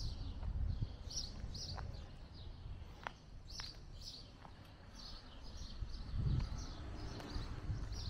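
Small birds chirping in short repeated calls, over a low rumbling background noise that swells about six seconds in.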